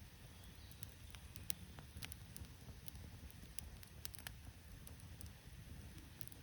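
Wood campfire crackling with irregular sharp pops, over a low rumble.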